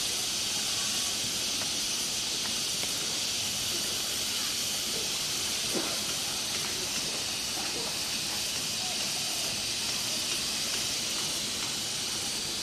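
Chicken satay skewers, basted with sauce, sizzling steadily on a grill.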